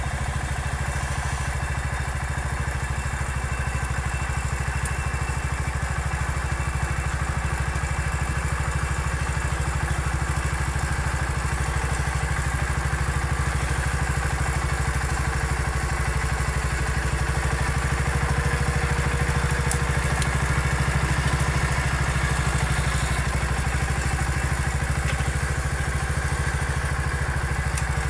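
Small MF 14 garden tractor engine running steadily as it works as a dozer, with an even low engine note throughout and light clatter.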